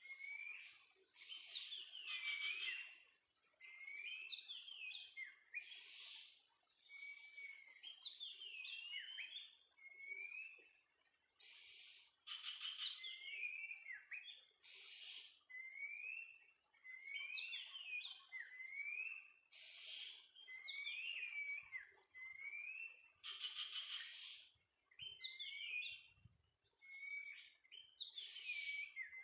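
Oriental magpie-robin singing: short whistled phrases that sweep up and down, repeated every second or two and alternating with harsh raspy calls, under a faint steady high hiss.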